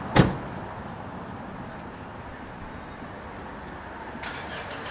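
A single sharp bang just after the start, over steady street traffic noise; near the end a brief hissing rattle.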